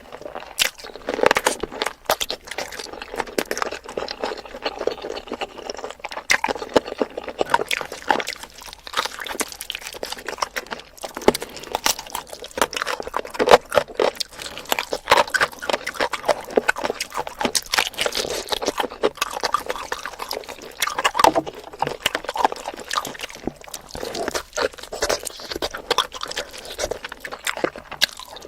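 Close-miked wet chewing and sucking of spicy chicken feet, with a continuous run of sharp sticky clicks and smacks.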